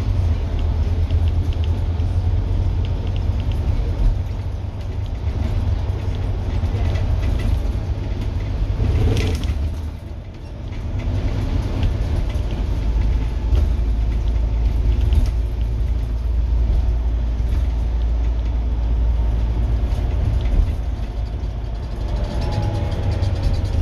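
Scania N230UD double-decker bus's five-cylinder diesel engine running under load as a deep, steady drone. It drops briefly about ten seconds in, and a whine falls in pitch near the end.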